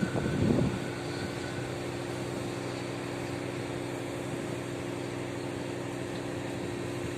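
Steady mechanical hum from a passenger train, with several low steady tones, after a louder rushing noise that dies away under a second in.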